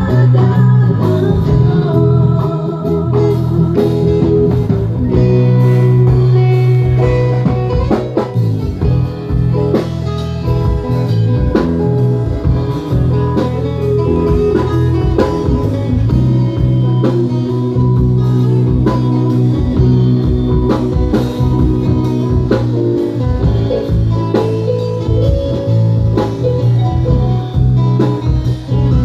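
A band playing, with plucked guitar and drum kit, recorded with poor sound quality.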